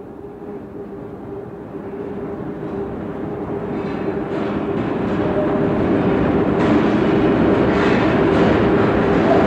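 Underground mail train approaching, growing steadily louder, with a steady hum and a few faint knocks.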